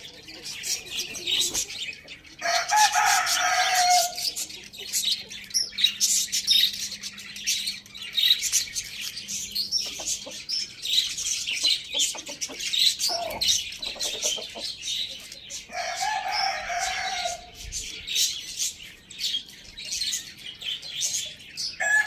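A rooster crowing twice, each crow about a second and a half long, with many small birds chirping continuously around it.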